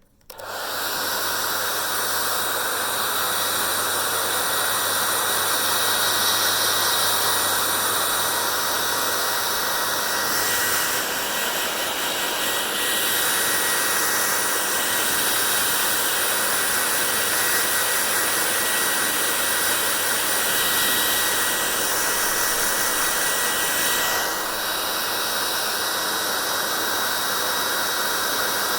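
Hair dryer switching on suddenly and then blowing steadily: a whooshing rush of air with a faint, steady high whine from the motor. The rush changes slightly twice, about eleven and twenty-four seconds in.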